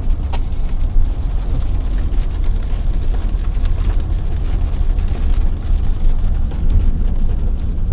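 Steady low rumble of wind and vehicle road noise, with faint scattered ticks over it.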